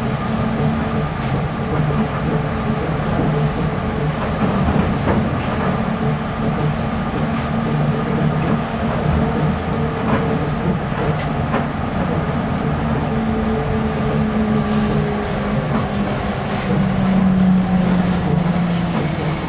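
Nippori-Toneri Liner rubber-tyred automated guideway train running along its elevated guideway, heard from inside the car: a steady rumble of the tyres on the concrete track with humming motor tones. One of the tones drops slightly in pitch near the end.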